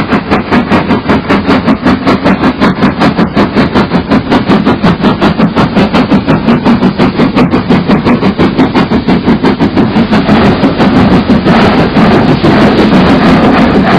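Train running with a steady rhythmic pulse of about four beats a second. About ten seconds in, the pulse turns denser and more continuous.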